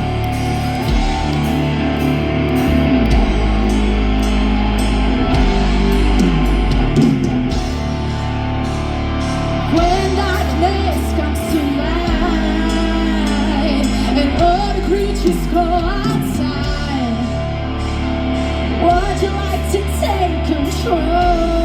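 Live rock band playing: guitars, bass and drums, with a singer's voice coming in about ten seconds in.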